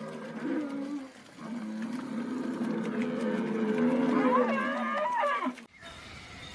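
A cow mooing: a short low call, then one long moo of about four seconds that bends upward in pitch near its end.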